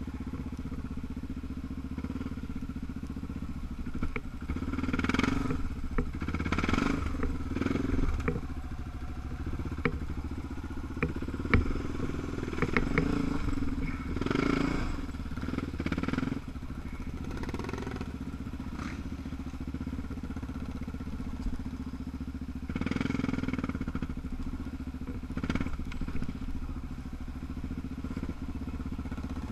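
Single-cylinder trail bike engine running at low speed over a rough track, opening up in several bursts of throttle. Sharp knocks and clatter come about ten to thirteen seconds in.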